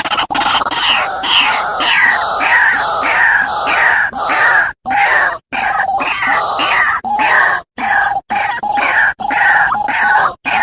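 White-breasted waterhen (ruak-ruak) calling a long run of harsh, repeated croaking notes, about two or three a second, with a few short breaks.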